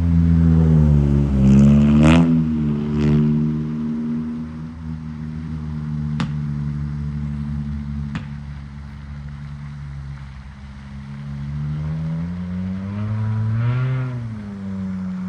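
A motor engine running, its pitch climbing and falling back twice, with two sharp clicks in the quieter middle stretch.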